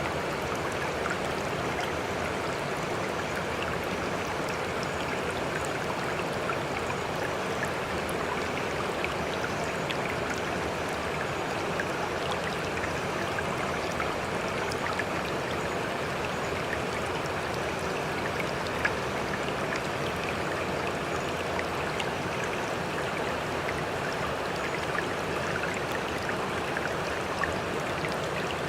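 Sea water making a steady rushing, trickling wash, with faint scattered little splashes and no rise and fall of breaking waves.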